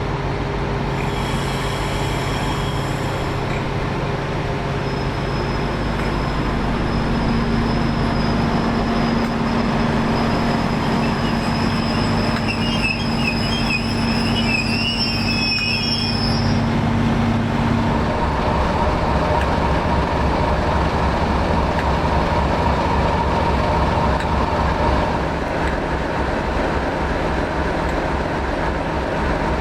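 Diesel train engines running at a station, with high metallic wheel squeal from a slowly moving train in the first half. About halfway through, the engine note changes to a lower, pulsing one.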